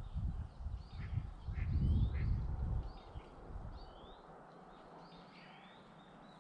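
Small birds chirping over and over with short rising calls. For the first three seconds a loud low rumble on the microphone lies under them, then dies away.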